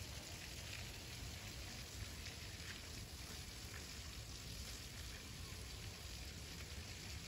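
Light rain pattering on concrete: a steady soft hiss with scattered faint drop ticks over a low outdoor rumble.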